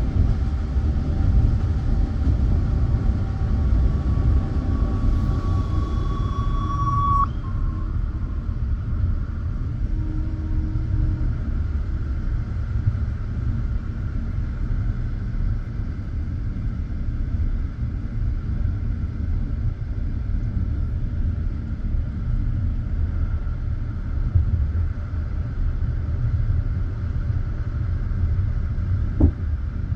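Steady low rumble of a passenger train heard from inside the carriage, with a thin high squeal that grows louder and cuts off about seven seconds in. Two sharp clicks come near the end.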